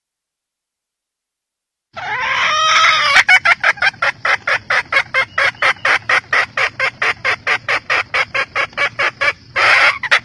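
Red junglefowl hen calling: a drawn-out call, then a fast, even run of short clucks at about five a second, and another longer call near the end.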